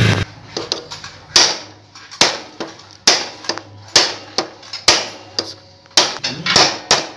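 Hammer taps on a Honda CG125 camshaft, struck through the old camshaft laid against it rather than directly with a pipe, which could damage the cam's edges and knock it out of place. About eight sharp metal knocks come roughly once a second, with lighter taps between.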